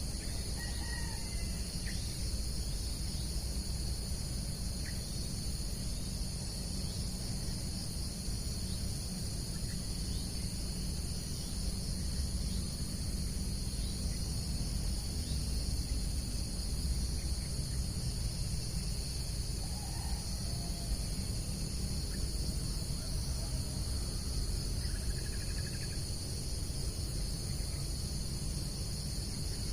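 Steady, high-pitched chorus of insects trilling without a break, with a few faint bird chirps about a second in and again near the end. A low rumble runs underneath.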